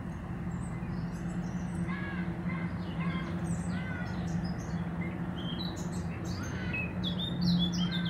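Small garden birds chirping in short, quick calls, busier near the end, over a steady low hum.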